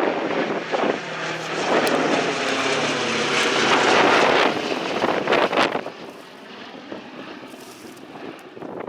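B-17 Flying Fortress flying past, its four Wright Cyclone radial engines and propellers giving a loud, steady drone. The drone fades away about six seconds in, leaving wind buffeting the microphone.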